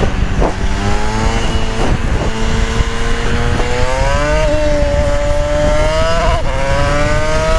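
KTM Duke 390's single-cylinder engine accelerating hard under load toward highway speed, its pitch rising steadily, with wind noise over the microphone.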